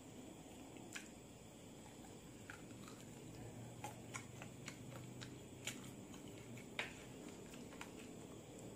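A person chewing and biting spicy balado chicken feet eaten by hand: wet mouth smacks and short sharp clicks at irregular moments over a faint steady hiss.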